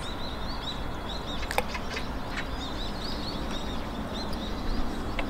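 Small birds chirping, short high notes repeated several times a second over a low steady outdoor rumble, with a couple of light clicks about one and a half and two seconds in.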